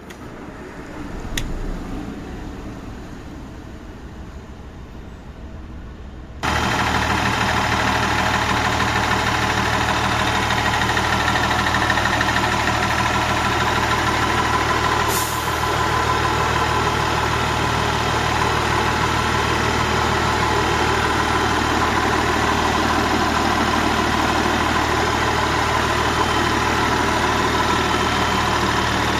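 Yutong bus engine idling steadily; quieter for the first six seconds or so, then abruptly much louder and steady from then on.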